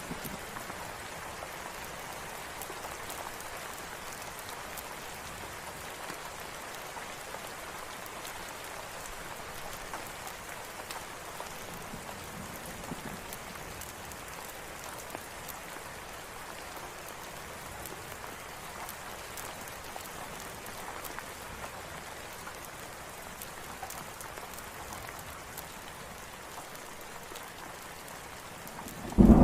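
Steady rain falling on surfaces, an even patter of drops. A loud rumble of thunder breaks in at the very end.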